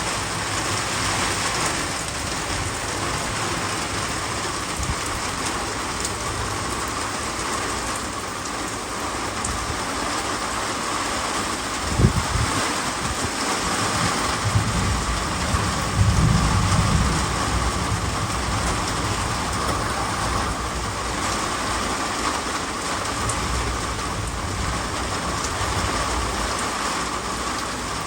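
Heavy rain falling steadily in a windy storm, an even hiss throughout. Low rumbles break in twice near the middle, the first starting sharply.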